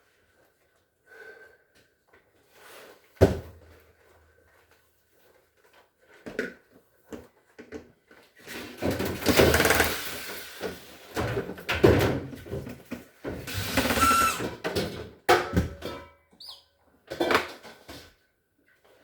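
Repair handling noise: a sharp knock, then several seconds of clattering, scraping and knocking as parts and tools are handled.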